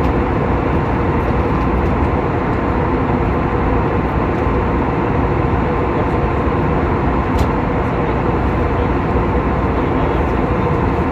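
Steady in-flight cabin noise of an Airbus A320neo: an even rumble and rush of engines and airflow, with a faint steady tone running through it.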